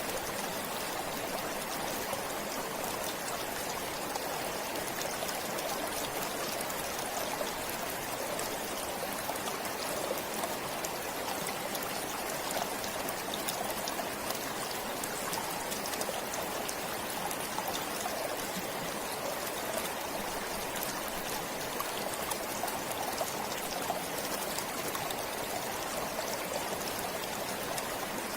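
Stream water flowing steadily, an even rush of water with light trickling and splashing.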